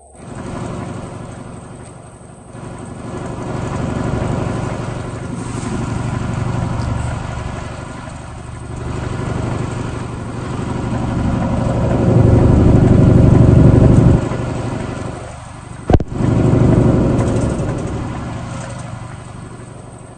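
Truck engine running under way, its level building and easing several times as it pulls. It is loudest just past the middle, then drops off suddenly. A single sharp click comes about three quarters of the way through.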